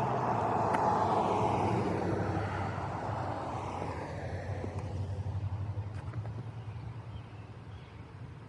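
A vehicle passing by: a broad engine and tyre noise loudest about a second in, then fading away over the next few seconds, over a steady low hum.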